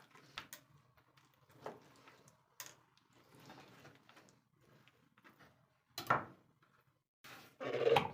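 Kitchen handling sounds: scattered knocks and clicks of things being picked up and set down, with a louder clatter about six seconds in and again near the end, over a faint steady hum.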